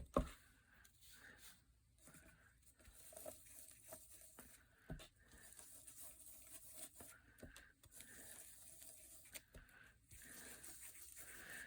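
Faint rustling and light taps of paper being handled, with a few small clicks near the start and about five seconds in.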